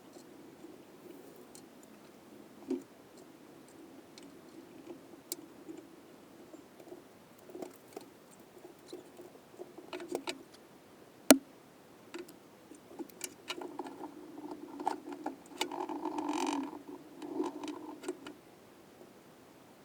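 Light clicks, taps and rustling from small engine parts and tools being handled on a workbench during engine assembly. There is one sharp click about eleven seconds in, and the handling gets busier in the last few seconds.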